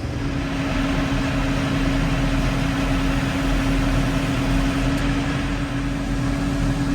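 Truck engine running steadily, with a steady whine that comes in just after the start, typical of a dump truck's hydraulic hoist pump working. The dump bed is being raised while the lift cylinder on one side is not picking up.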